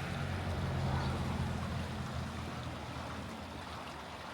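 A small stream flowing with a steady rush of water, under a low rumble that is strongest in the first couple of seconds and then eases off.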